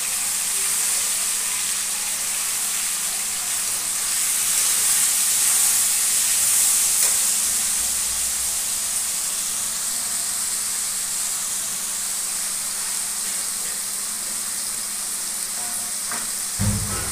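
Sliced button mushrooms sizzling in hot refined oil in a wok, a steady hiss as their extra water cooks off and they dry out. There is a brief low knock near the end.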